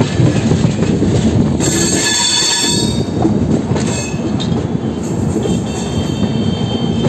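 Passenger train running, heard at the open coach door: a steady rumble of wheels on the rails with high-pitched wheel squeals, briefly about two seconds in and again as a held squeal near the end.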